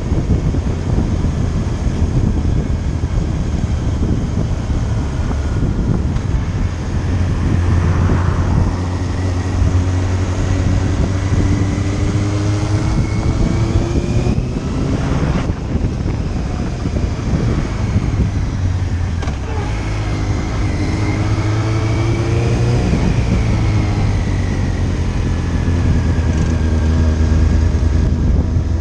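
Motorcycle engine running under way, heard from the bike over a rush of wind noise. Its pitch climbs and drops several times as the throttle opens and closes.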